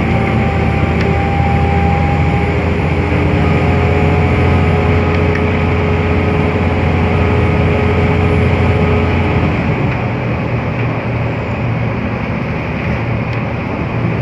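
Scania L94UA bus running under way: a steady low engine drone with a whine of several steady tones over it. About ten seconds in the whine stops and the sound eases a little.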